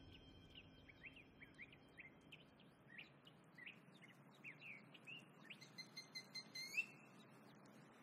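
Faint birdsong: many short, quick rising chirps over a light hiss, with a longer held note near the end that swoops up sharply just before it stops.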